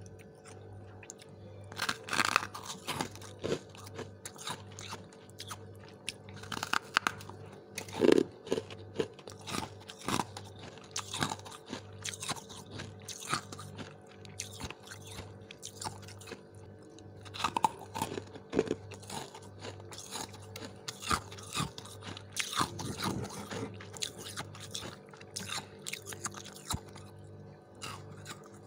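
Small chunks of freezer frost being bitten and chewed close to the microphone: irregular crisp crunches, the loudest bite about eight seconds in. A steady low hum runs underneath.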